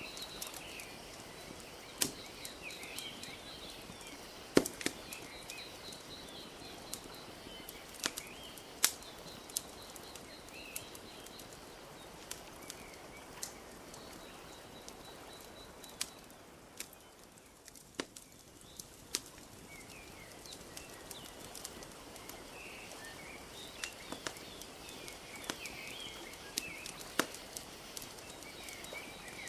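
Wood fire crackling, with sharp pops scattered irregularly through it, over the steady wash of gentle lake waves lapping. Small birds chirp now and then, most around the start and near the end.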